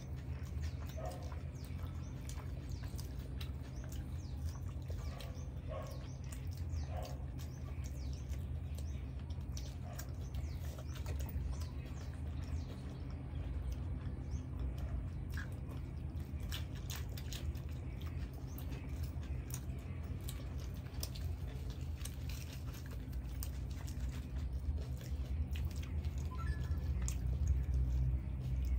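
Close-miked eating: chewing of bhatura (puffed fried bread) and chole curry, with many short mouth clicks, over a steady low hum that grows louder near the end.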